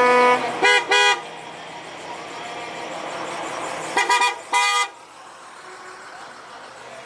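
Truck horns sounding short toots from prime-movers in a parade. A held horn note ends just after the start, then come two short toots about a second in and a quick burst of toots about four seconds in, over a steady background of traffic.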